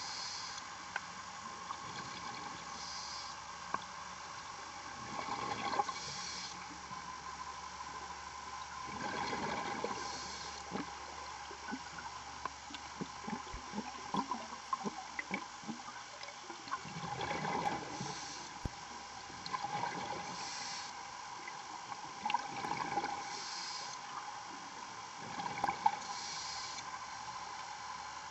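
Underwater sound of a scuba diver breathing through a regulator: a hissing, bubbling swell about every three to four seconds as breaths are drawn and exhaled, with scattered small clicks and crackles in between.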